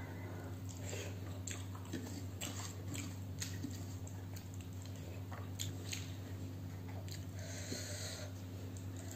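Close-miked chewing and wet mouth clicks from eating rice and curry, with scattered small clicks over a steady low hum. A brief rustle comes near the end.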